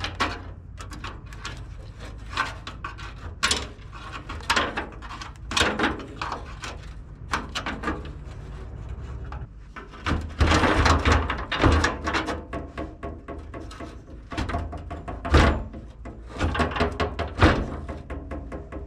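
Irregular metallic clanks, thunks and scraping as a pickup truck's old steel rear fuel tank and its straps are worked loose for removal, with a cluster of heavier knocks about ten seconds in, over a low steady hum.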